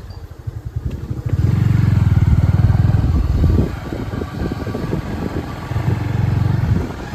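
Motorcycle engine running while being ridden, with a rapid low pulsing that grows louder twice: once from about a second and a half to three and a half seconds in, and again near the end.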